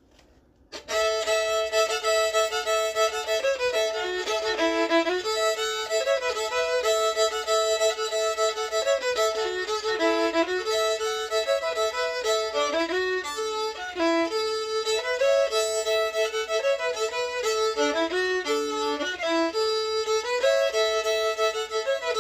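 Solo fiddle playing a tune, starting about a second in, often with a second string sounding alongside the melody.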